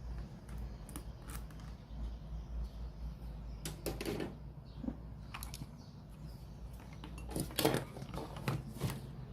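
Scattered clicks and knocks of a portable radio cassette player being handled during repair, a cluster about four seconds in and another, louder one near the end, over a steady low hum.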